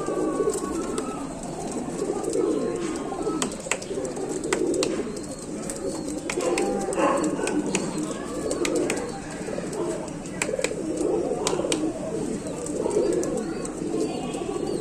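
Roller pigeons cooing in a continuous low murmur, with scattered sharp clicks throughout.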